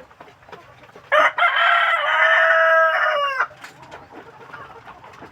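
A rooster crowing once, starting about a second in and lasting about two seconds, with the pitch dropping at the end. Chickens cluck quietly in the background.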